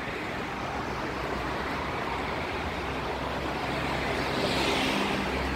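Steady rushing outdoor noise with a low rumble, getting a little louder and brighter about four seconds in.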